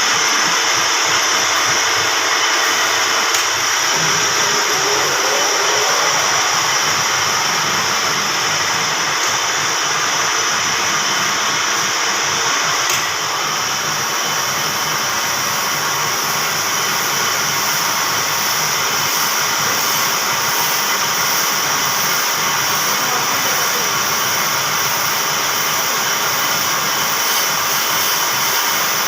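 Grinding machine running steadily with a constant high hiss, during grinding work on a Toyota 5L engine's cylinder head and camshaft.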